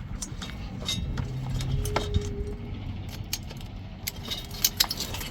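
Small metal engine parts clinking and clattering as they are put back into a container, in many scattered light knocks and clicks.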